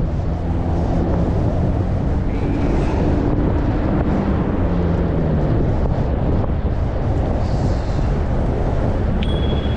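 Wind rushing over the microphone while riding, over a steady low hum of vehicle engines. A brief high thin tone near the end.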